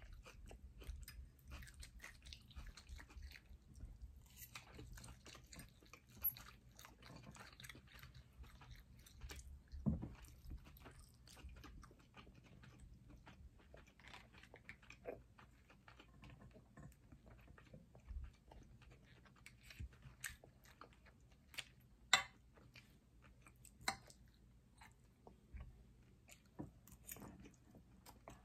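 Faint, close-miked chewing and mouth sounds of people eating a lobster and salmon dinner, with scattered small clicks and a few sharper ticks, the loudest about two-thirds of the way in.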